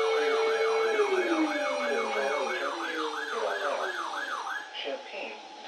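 Electronic siren in a rapid yelp, sweeping up and down about three times a second, then stopping near the end. A steady lower tone slides down in pitch and fades about a second in.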